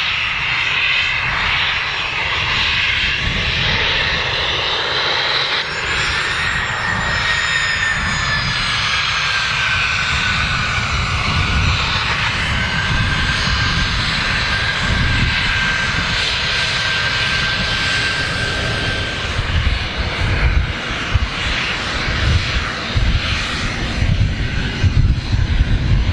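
Small general aviation aircraft engine running steadily, with a whine that slides down in pitch and then holds. The low end turns uneven and surging near the end.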